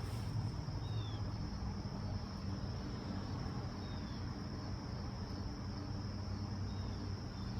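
Crickets trilling steadily in a continuous high drone, with a low rumble underneath.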